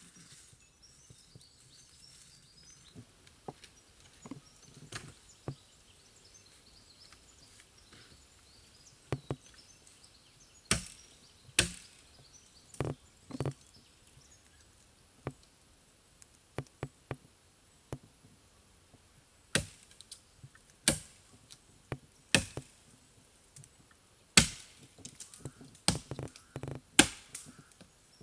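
A blade chopping wood in irregular single strikes, a few spaced out at first and coming more often from about ten seconds in.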